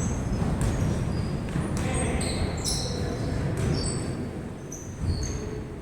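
Basketball game: many short, high sneaker squeaks on the court floor and a ball bouncing, over a background of voices.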